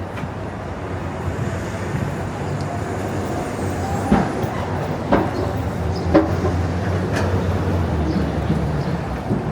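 City street traffic, with a heavy vehicle's engine running as a low steady hum that grows louder over several seconds. Three sharp knocks come about a second apart midway through.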